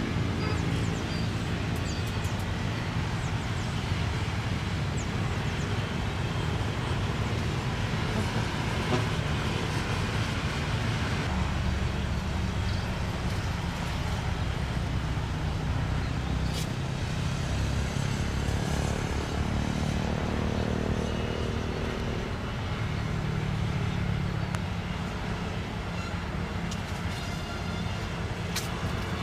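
A vehicle engine running steadily with a low hum, amid road or traffic noise, with a few faint clicks.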